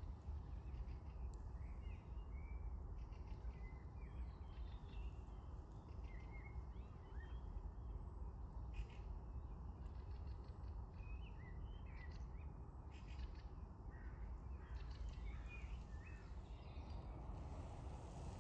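Birds calling, with many short chirps and calls scattered throughout, over a steady low rumble of background noise.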